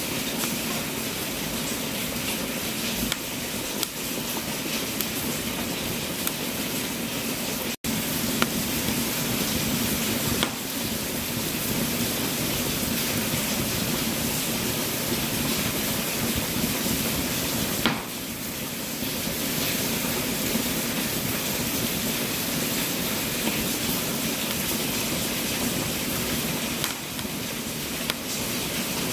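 Wood fire burning in a fireplace: a steady hiss with scattered small crackles and pops. The sound cuts out for a split second about eight seconds in.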